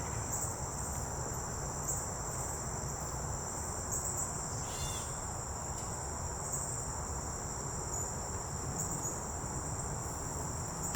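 Insects trilling steadily at a high pitch, like a cricket chorus, over a low even background rumble, with one short chirp about five seconds in.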